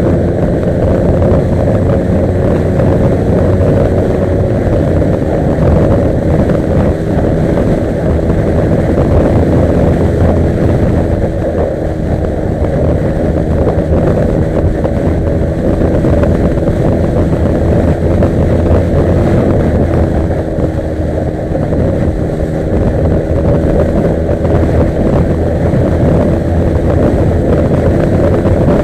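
Yamaha R15 V3's single-cylinder engine running at a steady pace as the motorcycle is ridden.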